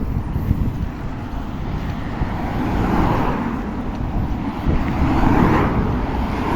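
Road traffic passing, with two vehicles swelling by about three and five and a half seconds in, over a steady low rumble.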